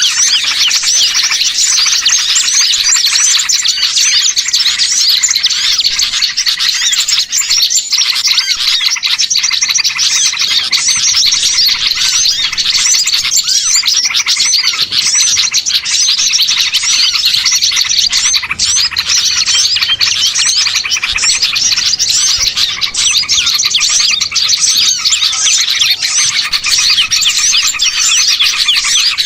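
A dense, unbroken chorus of many small songbirds chirping and calling over one another, all high-pitched. It is a bird-lure mix of small-bird calls, made to draw small birds in for trapping.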